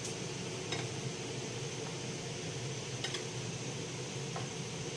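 A few light clinks of dishes and cutlery being handled, the clearest about three seconds in, over a steady background hum.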